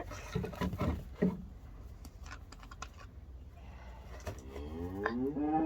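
A sheep bleats, one long call that rises and then holds, starting about four seconds in. It comes after a few seconds of small clicks and handling noises.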